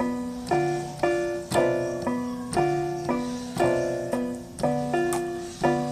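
Keyboard with a piano sound playing chords, struck roughly once a second, each dying away before the next.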